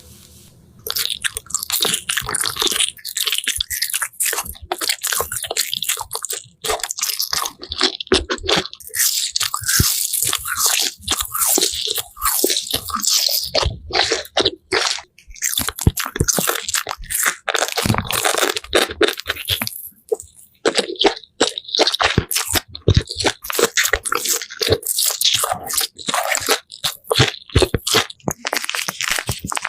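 Close-miked crunching and chewing of crisp food, a dense run of crackling bites with a few brief pauses.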